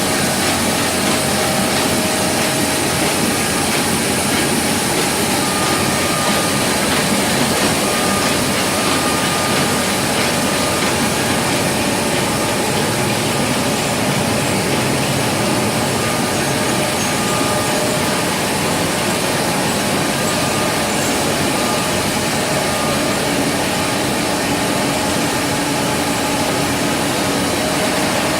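Heidelberg SORMZ two-colour sheet-fed offset printing press running: a steady, dense mechanical noise with faint steady tones over it.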